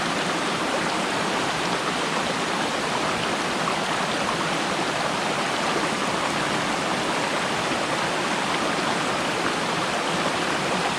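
Small woodland stream rushing over rocks and little waterfalls, a steady even rush of water.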